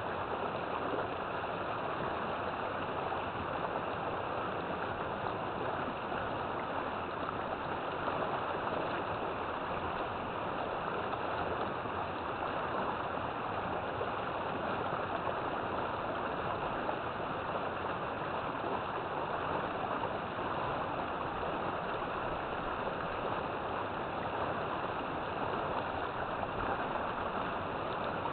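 River water flowing and rushing steadily over rocks, a continuous even rush with no breaks.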